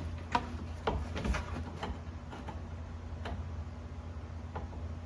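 Scattered light clicks and taps, about seven at irregular intervals and more of them in the first two seconds, from hands working replacement coolant hoses and fittings onto the engine, over a steady low hum.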